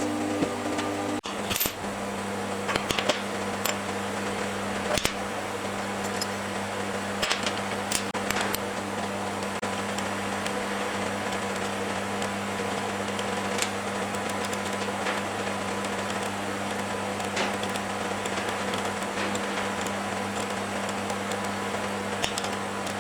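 AC TIG welding arc on cast aluminium buzzing steadily, with scattered sharp crackles.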